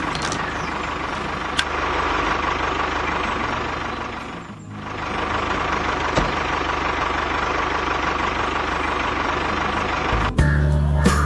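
A motor running steadily, with a faint whine, a low hum and a brief dip about halfway through. Music starts just before the end.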